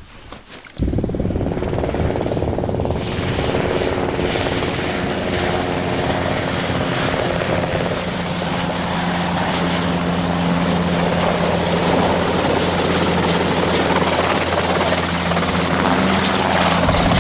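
Helicopter running close by: steady engine and rotor noise with a thin high turbine whine, cutting in abruptly about a second in.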